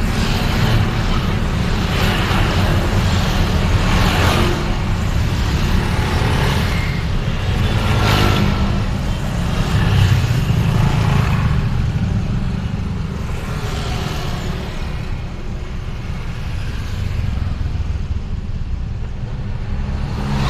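Road vehicle travelling through town traffic: a steady low engine and road rumble, with noisy swells every few seconds as other vehicles pass.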